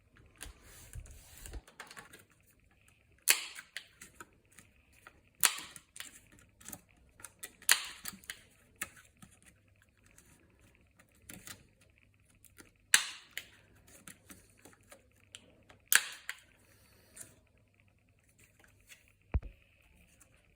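Sharp clicks and taps from hands handling small craft objects: about five loud clicks a few seconds apart, with lighter ticking and rustling between them.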